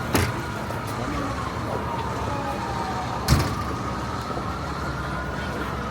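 Busy city street traffic noise, with a faint siren wail slowly falling and rising in pitch. Two sharp knocks land about three seconds apart, one at the very start and one past the middle.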